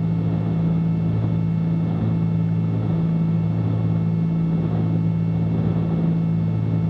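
Twin piston engines of a Cessna 310Q droning steadily from inside the cabin at reduced approach power, gear down and full flaps on final. The drone swells slowly and unevenly, the beat of two engines not quite in sync.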